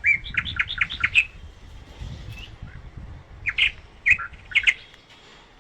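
Cockatiel chirping: a quick run of about eight short chirps at the start, then after a pause of about two seconds a second, looser cluster of chirps.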